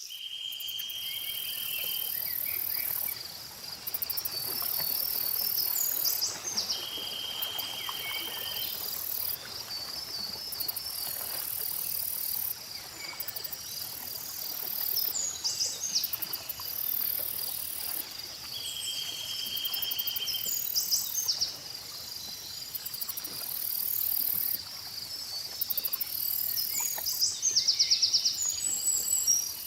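Lakeside nature ambience: insects keep up a steady high shrill trill that pulses on and off, while birds give quick chirps rising and falling in pitch. A buzzy call of about a second and a half comes back about every ten seconds.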